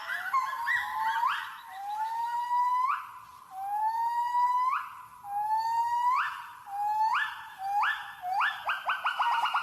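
Gibbon singing: a series of loud rising whoops, about one a second, that quicken near the end into a fast run of notes.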